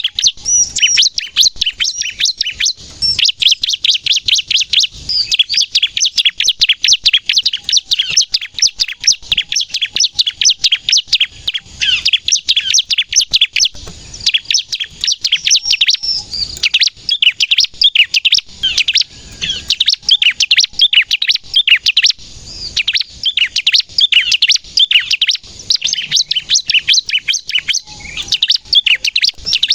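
Bar-winged prinia (ciblek) singing non-stop in a dense stream of rapid, sharp, high chirps, broken only by short pauses every few seconds.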